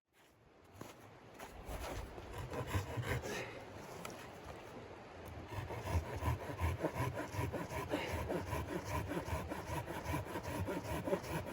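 Hand saw cutting through wood in quick, steady back-and-forth rasping strokes, starting about two seconds in and getting louder about six seconds in.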